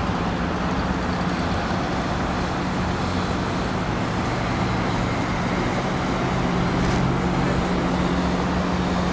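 Steady traffic noise with the low, even hum of an idling engine, and a brief sharp click or knock about seven seconds in.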